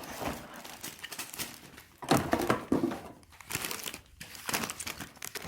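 Plastic packaging crinkling and rustling in irregular bursts as it is handled, loudest about two seconds in.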